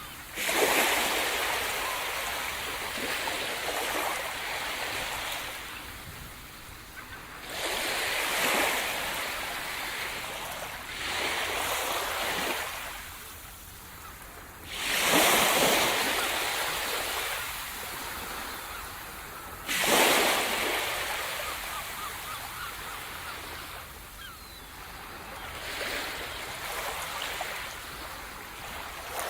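Sea surf breaking in repeated waves, about six in all: each starts with a sudden rush of white noise and washes out over a few seconds. The two strongest breaks come near the middle and about two-thirds of the way through.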